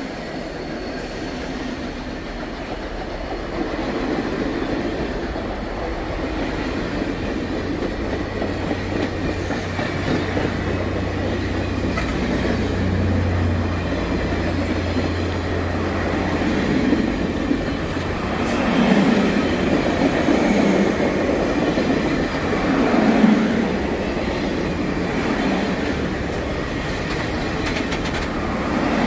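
A train rolling steadily past on the rails, its wheels clacking and at times squealing, with a low steady hum in the first half and the sound swelling a few times near the end.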